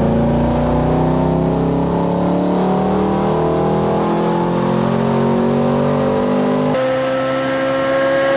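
Corvette Z06 V8 engine pulling hard under acceleration, its note climbing steadily in pitch; about seven seconds in, a cut to another clip of a high, steady engine note that keeps rising slowly.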